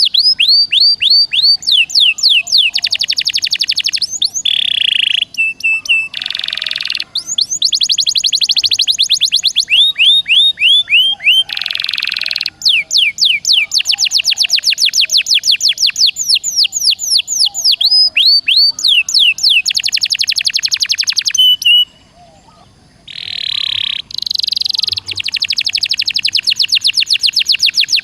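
Songbird song at fast tempo: long runs of quick, falling whistled notes repeated many times a second, broken now and then by short harsh buzzy notes. The song stops briefly about 22 seconds in, then resumes.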